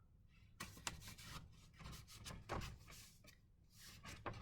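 Faint rustling of paper journal pages being handled and turned, with a few short scrapes.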